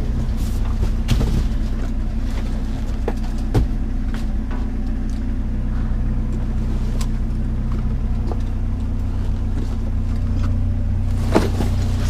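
A motor vehicle's engine running steadily with a constant low hum, with scattered clicks and knocks over it.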